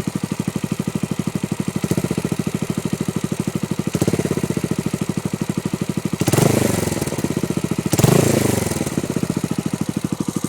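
Suzuki Grasstracker Big Boy's single-cylinder engine idling through a SuperTrapp aftermarket muffler with an even, pulsing exhaust beat, blipped four times: two light blips, then two bigger revs a couple of seconds apart that rise and fall back to idle.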